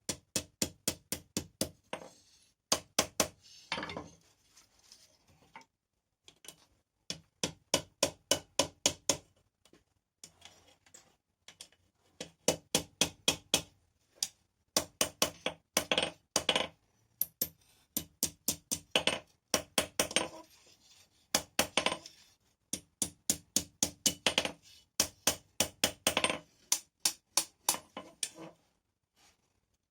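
Blacksmith's hand hammer striking rebar on an anvil in runs of quick blows, about four or five a second, with short pauses between runs. Each blow rings with a metallic anvil tone.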